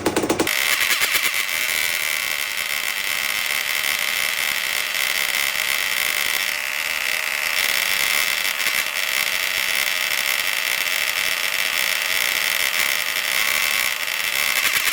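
1984 Honda CR250's two-stroke single-cylinder engine held at raised revs with a steady high whine. It goes up from a knocking idle about half a second in and holds there throughout, while it warms up to check coolant circulation.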